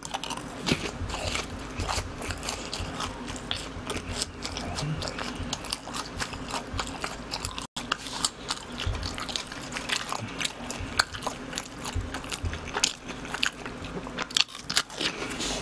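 A person biting into and chewing fried cheese balls, deep-fried glutinous-rice dough with a cheese filling: a continual run of crunches and mouth clicks.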